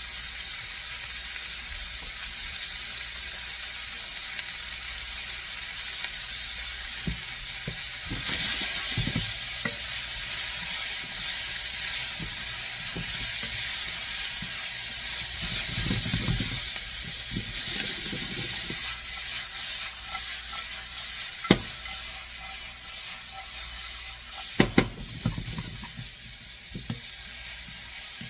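Sliced red bell peppers and onions sizzling in oil in a skillet while being stirred with a spatula, which scrapes along the pan. The sizzle gets louder about eight seconds in, and a few sharp knocks of the spatula on the pan come near the end.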